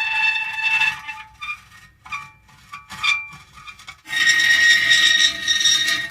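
Metal creaking: long, high, squealing creaks with several steady pitches, breaking into short, quieter creaks after about a second, then a loud, drawn-out creak returns about four seconds in.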